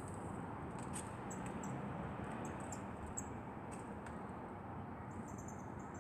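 Marsh tits giving many short, very high, thin call notes, scattered irregularly over a steady background hiss.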